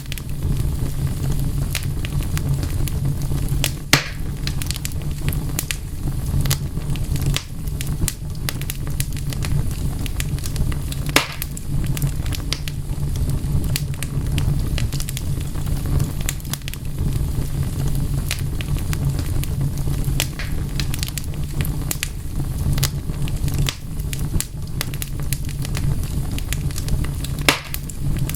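Wood fire burning with a steady low rumble and constant crackling. Sharp pops of snapping wood stand out about 4 seconds in, about 11 seconds in and near the end.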